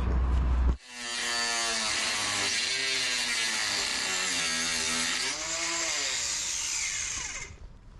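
Angle grinder with a stainless-steel (inox) cutting disc cutting into an aluminium mast base. It starts under a second in with a loud whine whose pitch dips and rises as the disc bites, then winds down with falling pitch near the end. The disc cuts the aluminium, but unevenly.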